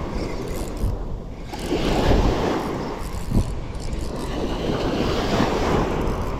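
Wind buffeting the microphone over the rush of sea waves, surging and easing in irregular swells.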